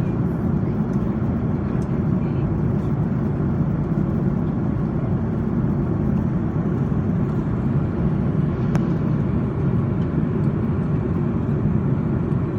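Airbus A330-200 passenger cabin noise: a steady, unbroken low roar of the engines and air.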